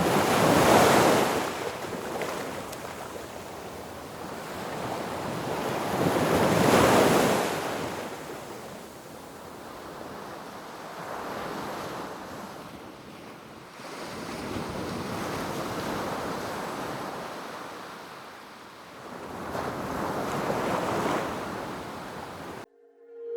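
Sea waves surging and breaking on the shore in five swells a few seconds apart, the first two loudest.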